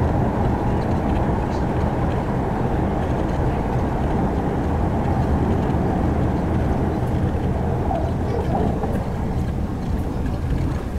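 Hyundai Rotem R-train electric multiple unit running steadily, heard from inside a motor car: a continuous low rumble of wheels on rail and running gear with a steady low hum.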